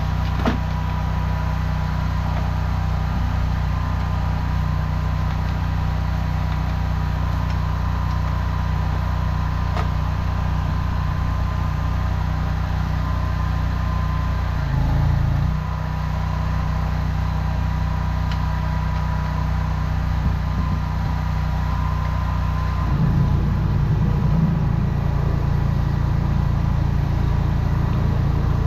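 Engine of a high-pressure drain jetter running steadily while it jets the sewer line, its note shifting and growing a little louder about 23 seconds in.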